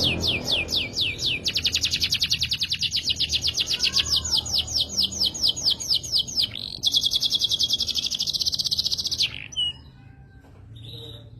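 Domestic canary singing: rapid trills of repeated down-slurred notes that speed up partway through, then change to a faster trill, stopping about two seconds before the end.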